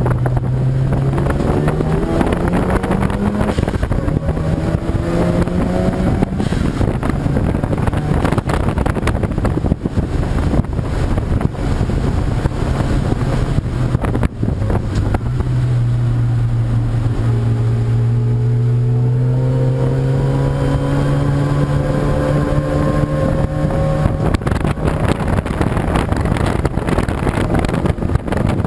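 Race car engines climbing in pitch under acceleration, stepping up through gear changes in the first few seconds and then rising in one long pull, over heavy wind buffeting on the microphone.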